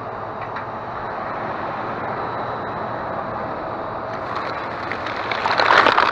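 Steady background hum, then from about four and a half seconds in, louder crinkling and rustling of plastic as a garbage bag full of coffee pods is handled.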